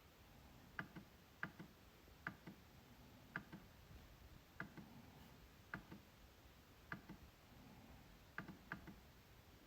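MacBook trackpad being clicked: about ten sharp, short clicks at uneven intervals, many followed closely by a softer second click.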